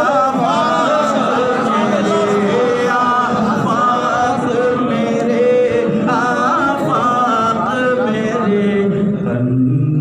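Voices singing an unaccompanied Urdu devotional song, with long, drawn-out, wavering melodic lines.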